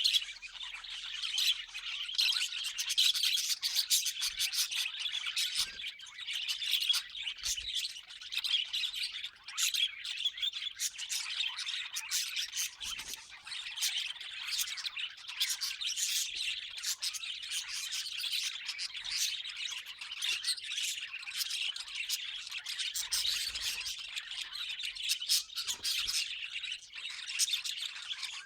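Budgerigars chattering without a break: a dense warble full of short, sharp chirps and squawks.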